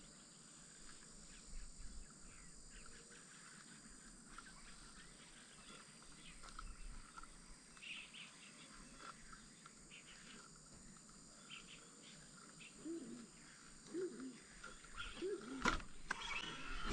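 Faint outdoor ambience with scattered short bird chirps over a steady faint high hiss, a few lower calls near the end, and a single sharp click shortly before the end.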